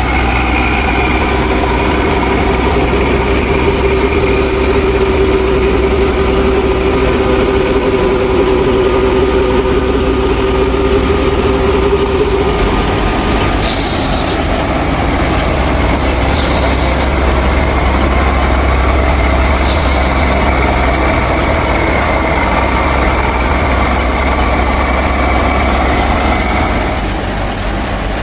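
Engine running steadily with a low hum and a droning tone that changes about halfway through.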